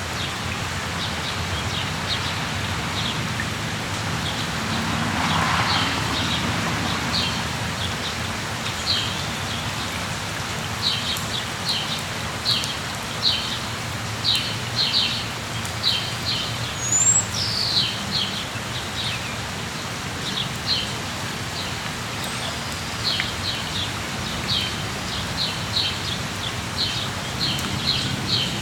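Steady rain falling, with small birds chirping over it in quick runs of short high chirps, thickest in the middle and again near the end, and a couple of quick whistled glides. The rain noise swells briefly about five seconds in.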